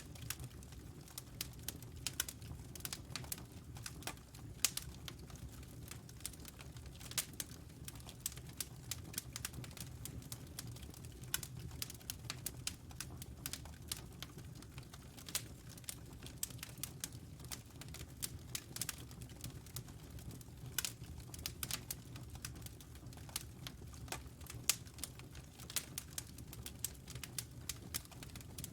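Wood fire crackling in a fireplace, with many irregular sharp pops and snaps over a low steady rumble.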